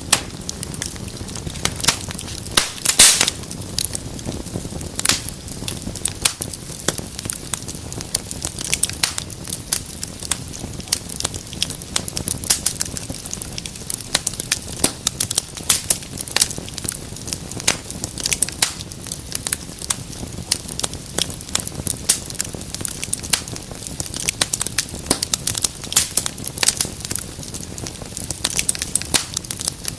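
Wood fire burning in a fireplace, crackling and popping with many irregular sharp snaps over a low steady hiss of flame; a louder burst of pops comes about three seconds in.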